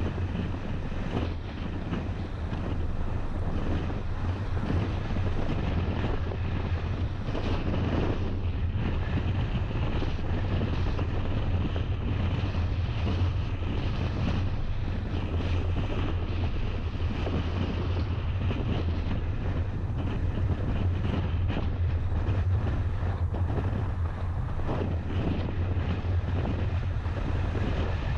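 A car driving steadily along a road: a low, even hum of engine and tyres, with wind buffeting the microphone.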